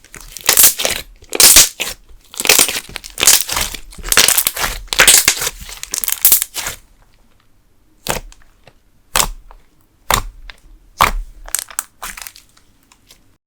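Thick candle slime being worked by hand, with a dense run of loud crackling and popping air bubbles for about seven seconds, then five single sharp pops about a second apart.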